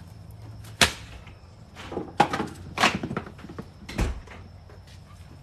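Several separate knocks and clunks from items being handled and set down, about four in a few seconds, the last a heavier, deeper thud, over a low steady hum.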